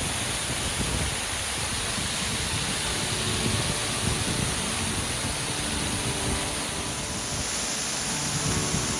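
Steady rushing roar of a waterfall, falling water hissing evenly with no breaks.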